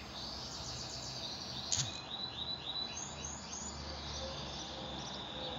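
A small bird chirping a quick series of about six short, high notes, over steady background noise, with a single sharp click just before the chirps.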